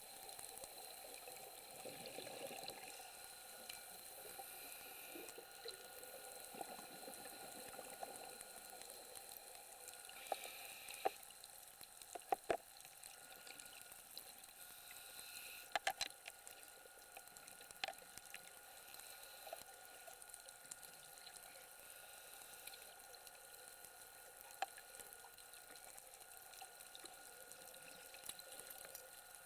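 Faint underwater ambience: a steady high hiss and crackle, with a few sharp clicks around the middle.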